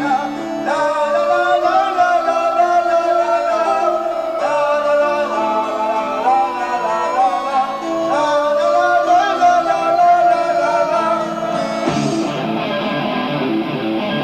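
Live progressive rock band playing an instrumental passage, with a sustained lead melody that bends in pitch over bass and keyboards, heard through an amateur live tape recording.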